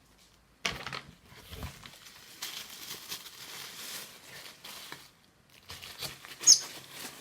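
Packaging being unwrapped, crinkling and rustling irregularly, with a brief sharp high-pitched sound about six and a half seconds in.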